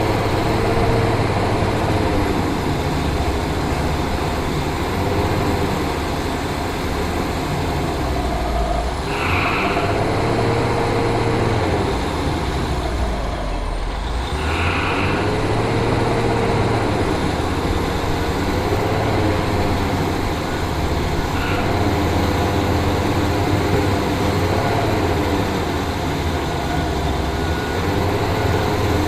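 Large excavator's diesel engine running under load. Its pitch rises and falls again and again as the machine works, with two short hisses near the middle.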